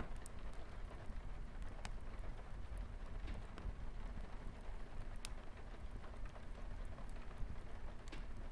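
Light rain on a window with a wood fire crackling: scattered sharp pops and clicks over a steady low rumble and hiss.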